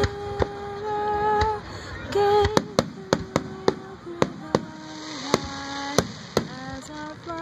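Fireworks going off in quick succession, sharp bangs about two to three a second from about two and a half seconds in, over music with long held sung notes.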